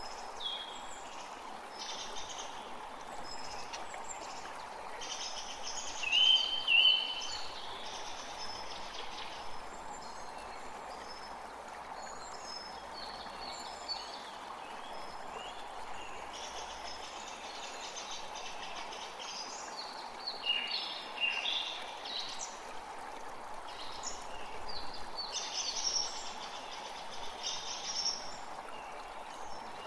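A creek running steadily, with small birds chirping and singing over it throughout; the loudest calls, a pair of clear notes, come about six seconds in, with another busy spell of song around twenty seconds in.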